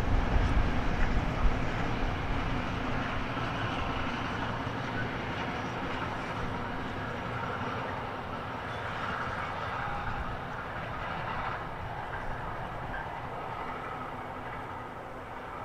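A train rolling past on the line, its running sound fading steadily as it moves away, with wind gusting on the microphone at first.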